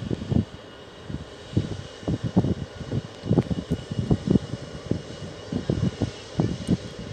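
Aircraft engines running at an airport, with irregular low gusts of wind buffeting the microphone over them.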